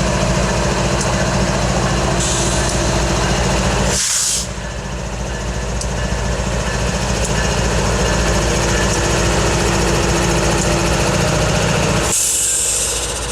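GE ES44DC diesel-electric locomotive's engine running steadily. Short hisses of air from the air brakes come about four seconds in and again near the end.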